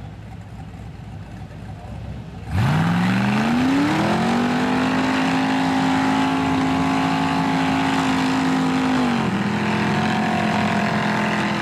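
Rock buggy's Ford engine idling low, then about two and a half seconds in it is given full throttle: the revs climb quickly and hold high and steady for several seconds, dip a step about nine seconds in, and hold there again.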